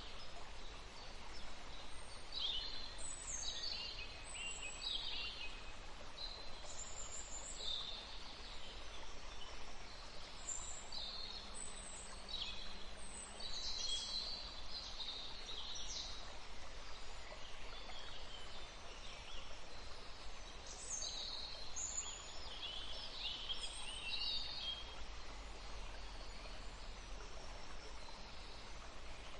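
Many songbirds chirping and singing, with short calls and trills overlapping throughout, over a steady background hiss.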